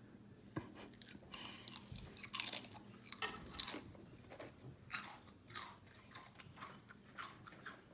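Someone biting into and chewing a crisp potato chip: a run of sharp crunches, about two a second.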